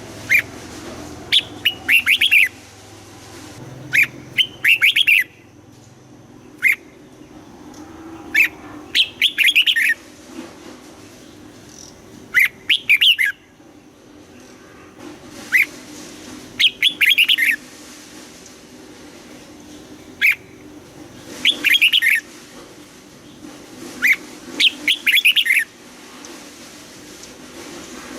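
Red-whiskered bulbul singing: short phrases of quick chirping notes, each opened by a single note, repeated every three to four seconds.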